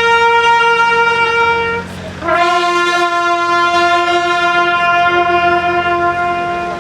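Bugle call: a long held note that breaks off, then after a short breath a lower note held steadily for about four and a half seconds.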